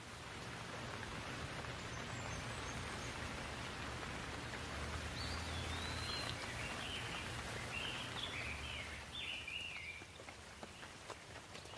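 Steady rain falling, swelling in the first second and easing a little near the end, with a few sharp drips. A bird calls with several quick chirps and trills in the middle.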